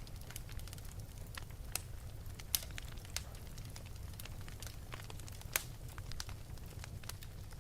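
Wood fire burning in an open fireplace: a low steady rumble of flame with irregular sharp crackles and pops, two of them louder than the rest.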